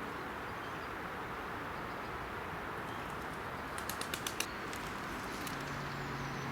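A bird's wings flapping: a quick run of about six sharp wing claps a little past the middle, over steady outdoor background hiss, with a low hum coming in near the end.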